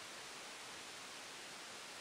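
Faint, steady hiss with no distinct sounds in it.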